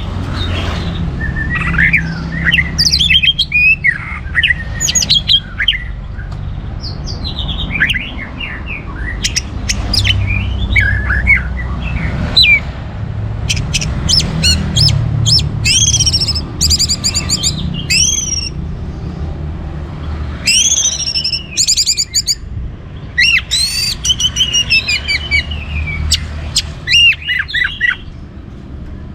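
Orange-headed thrush singing a varied, continuous song of whistled phrases that glide up and down in pitch, mixed with short sharp notes, over a steady low hum.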